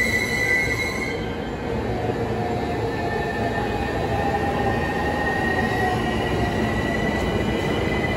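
Electric commuter train rolling slowly alongside the platform, with a high steady squeal from its wheels or brakes over the running noise; the squeal is loudest until about a second in, then carries on fainter.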